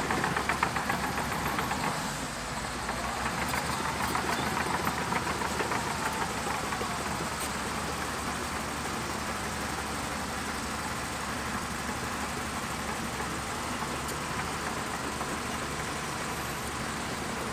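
Diesel engine of a Shantui DH17C2 bulldozer running, with a fast firing pulse and louder in the first few seconds, then settling to a steadier, lower run.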